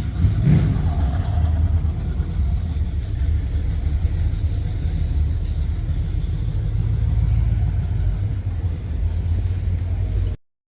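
Low, steady rumble of a car engine running, swelling briefly about half a second in and cutting off abruptly near the end.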